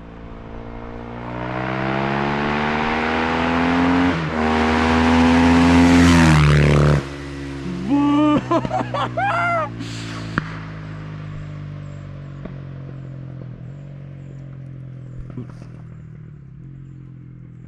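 2017 Husqvarna FE 450 single-cylinder four-stroke dirt bike engine through an Akrapovič exhaust, revved up from idle and held at high revs for a few seconds before dropping sharply. A quick string of throttle blips follows, then it settles back to a steady idle.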